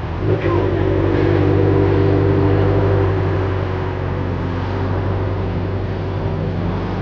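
A car engine running steadily, loud and close.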